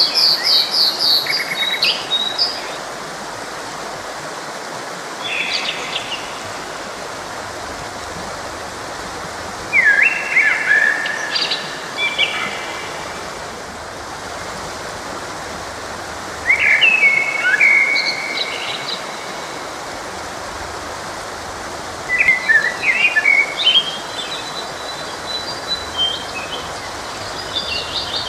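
Songbirds singing short chirping phrases of quick rising and falling notes every five seconds or so, over the steady rush of a forest stream.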